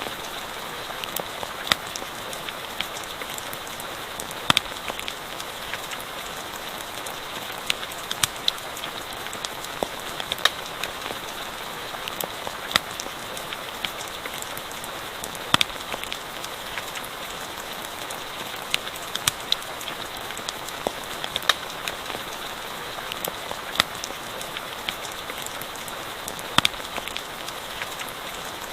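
Steady rain hiss with irregular sharp crackles and pops from a campfire.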